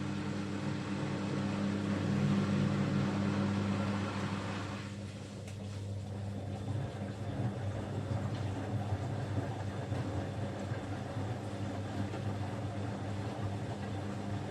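Bosch Avantixx 6 washing machine running late in its quick 15-minute cycle: a steady motor hum with a rushing noise that eases off about five seconds in.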